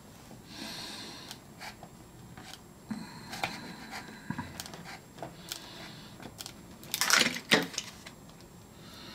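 Scattered light clicks, taps and short scrapes of hand work on a plastic door trim piece being cleaned up around a fresh epoxy repair, with a louder scrape about seven seconds in.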